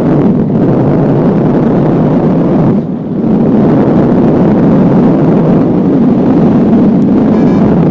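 Strong wind buffeting the microphone in flight, a loud steady rumble with a brief lull about three seconds in.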